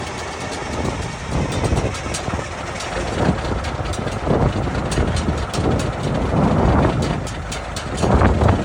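Straight-piped diesel engine of a Peterbilt 362 cabover truck idling just after a warm start, running unevenly with a swell in loudness every second or two.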